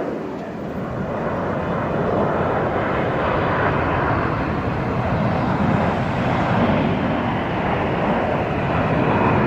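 Jet aircraft flying past: steady jet engine noise that grows louder over the first couple of seconds and then holds.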